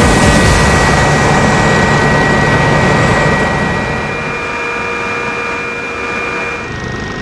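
Helicopter running: a steady turbine whine with several high held tones over a rumbling engine and rotor noise, growing quieter after about three and a half seconds.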